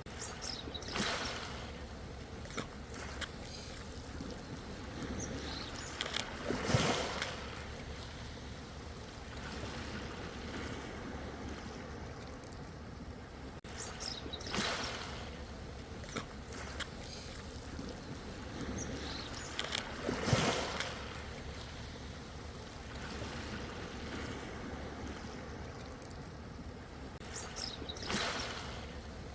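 Ocean surf: waves breaking and washing in, five swells that rise and fall about every six to eight seconds over a steady low rumble of water.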